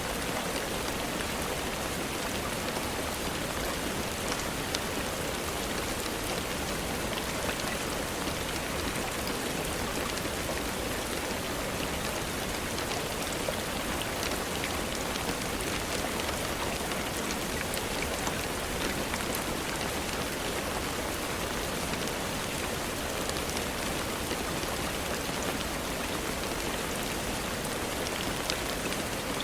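Steady, even rainfall with scattered small sharp ticks through it.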